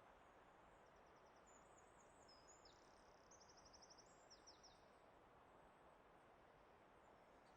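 Very faint forest ambience: a steady rushing background of wind or flowing water, with a songbird singing several quick, high trills in the middle.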